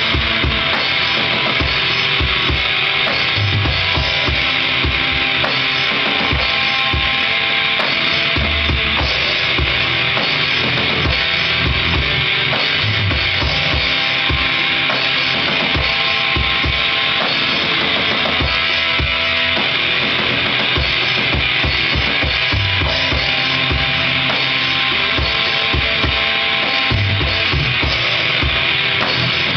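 Drum kit and guitar playing a jam together: a busy kick-drum groove under a continuous cymbal wash, with sustained guitar notes.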